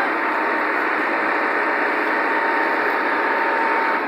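Tractor engine running loudly and steadily, with a faint steady whine on top.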